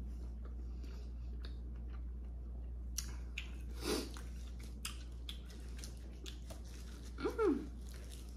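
Chewing and biting seafood-boil food: a string of soft, wet mouth clicks and smacks over a steady low hum.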